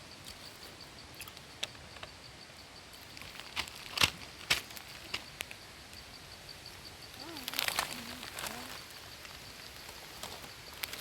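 Quiet outdoor ambience: a steady rush under a faint high chirp that repeats about four times a second, with a few sharp clicks a few seconds in and a faint voice near the middle.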